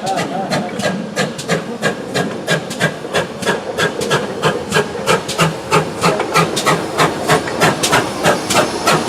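GWR 57xx class pannier tank steam locomotive working, its exhaust beating steadily at about three to four beats a second.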